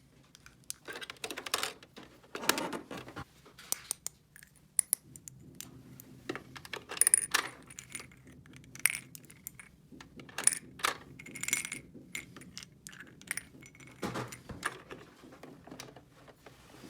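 Small toy kitchen pieces being handled and set down: a run of light clicks and clatters, a few with a short bright ringing tone, over a faint low hum through the middle.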